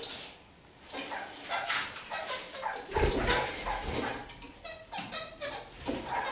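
Red-crowned kakariki calling: a run of short, pitched chattering notes in quick succession. A low rumble joins in about three seconds in.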